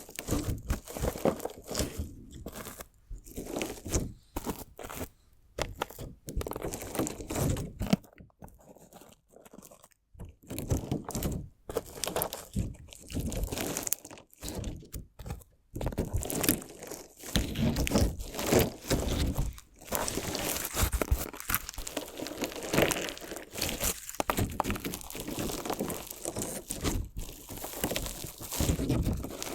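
Crunchy slime jelly mixed with small decorative stones being worked by hand, giving dense, irregular crunching and crackling. It goes quieter and sparser for a couple of seconds about eight seconds in.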